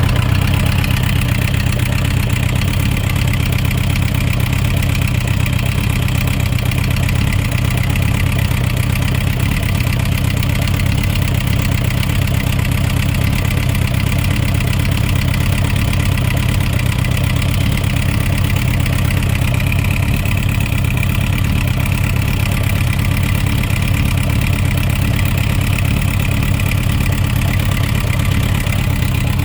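Suzuki RF900's inline-four engine idling steadily, with the knocking sound that the owner presents as an engine problem.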